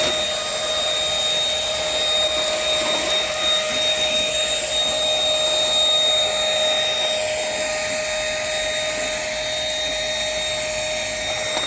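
Dirt Devil Simpli-Stick corded stick vacuum running steadily with a constant motor whine over a rush of air.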